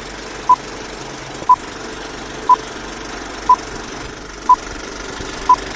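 Countdown sound effect: a short, single-pitch beep once a second, six times, over a steady mechanical whirring noise, in the manner of an old film-leader countdown.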